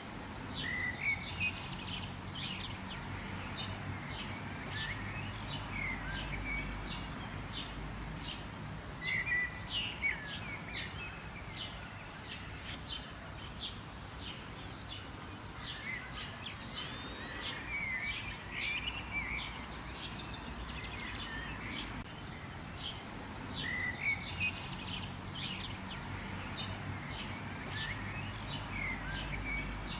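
Songbirds chirping and calling: many short, sharp, high chirps with some gliding whistled notes, coming in clusters every few seconds over a low, steady background rumble.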